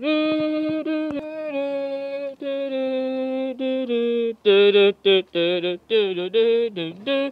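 A voice singing wordless held notes that jump from pitch to pitch, shorter and louder in the second half.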